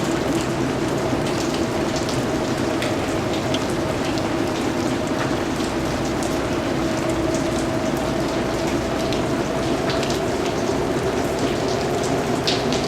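Steady rain falling, with a dense hiss and individual drops ticking sharply here and there, one louder drop near the end.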